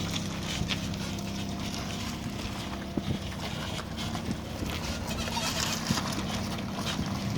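Renault Talisman running with a steady low hum and irregular clicking and knocking noises over it, the kind of noise filmed as a fault.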